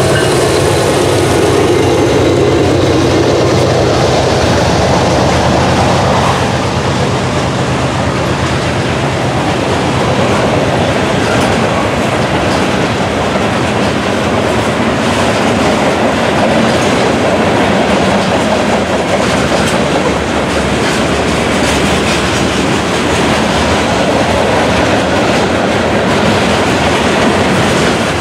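Freight train of covered hopper cars rolling past: a steady rumble of steel wheels on rail with clickety-clack over the rail joints. In the first second or two the engine drone of the passing diesel locomotive fades out.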